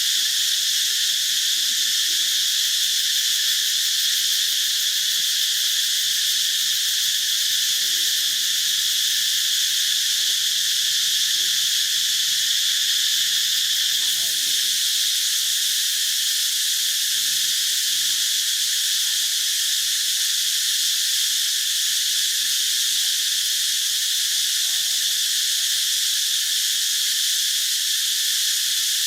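Steady, unbroken high-pitched chorus of insects such as crickets or cicadas.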